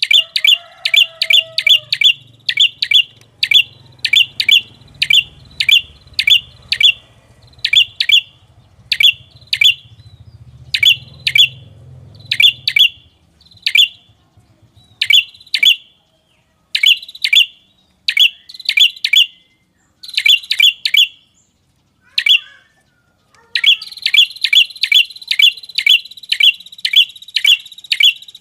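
Bird lure call of the red-headed prenjak: a long series of short, sharp, high chirps, a few a second, in runs with brief pauses and a quicker run near the end. A faint low hum lies under the first half.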